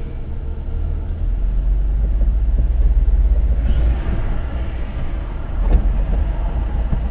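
Low rumble of a car heard from inside its cabin, with a faint knock about six seconds in.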